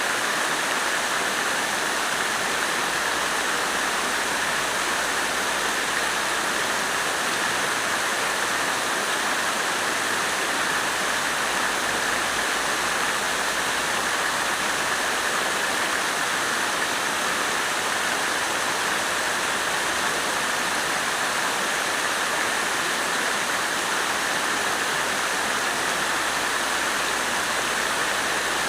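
Water fountain splashing steadily: a continuous even rush of falling water.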